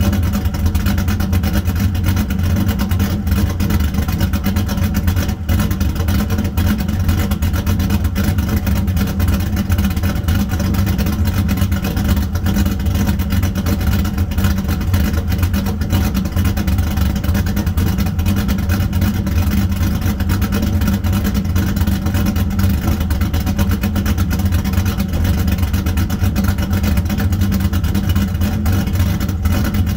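Chevrolet Camaro's LS1 5.7-litre V8 with an aftermarket camshaft, idling steadily through its exhaust.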